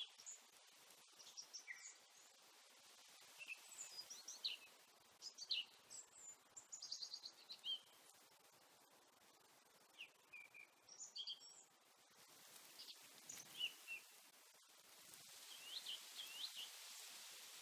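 Faint birdsong: scattered high chirps and a few short quick trills over a soft background hiss.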